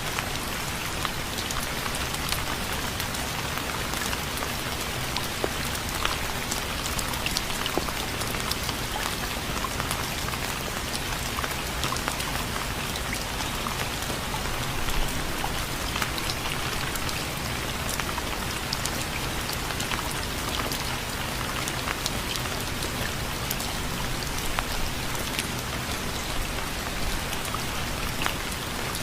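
Steady rain with many individual drops ticking on a surface.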